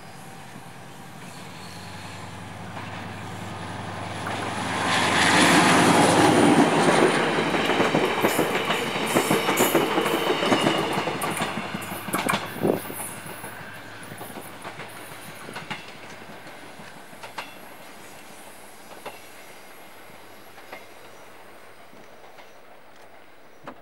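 Diesel-hauled passenger train passing close by. The locomotive's engine hum builds to a peak about five seconds in. The wheels then click over the rail joints as the coaches go by, and the sound fades as the train moves away.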